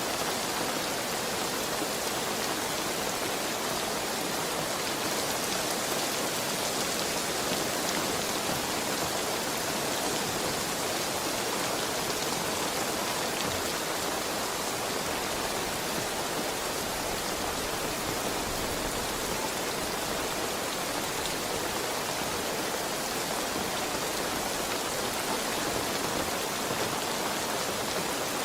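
Steady heavy rainfall, an even hiss of rain on surfaces with no thunder or other events.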